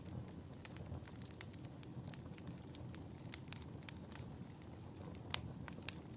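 Wood fire burning in a fireplace: a low steady rumble of the flames with irregular crackles and pops, two sharper pops near the end.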